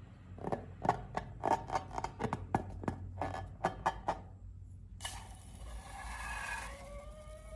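Slime being handled in an ASMR video. A quick, irregular run of sharp sticky clicks and crackles lasts about four seconds. A brief pause follows, then a hiss with a few squeaky, bending tones begins about five seconds in.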